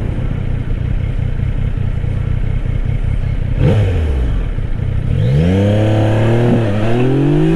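Yamaha Tracer 900 GT's three-cylinder engine running steadily. From about five seconds in it revs up hard under full acceleration, with a brief dip at a gear change before it climbs again.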